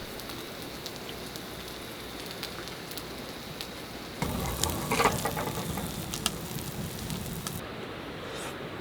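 Food sizzling and frying in a hot pan, a steady hiss that swells louder about four seconds in, with a few sharp clicks.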